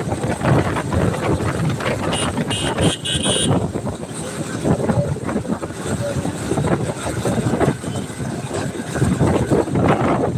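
Road vehicle noise while travelling along a road, a rough fluctuating rumble with no steady engine pitch. A brief high tone sounds about two seconds in and lasts for about a second and a half.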